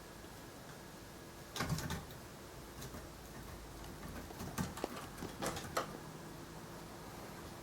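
Kittens at play: short clusters of quick taps and scrabbling, a burst about a second and a half in and more between about four and a half and six seconds, over a faint steady hum.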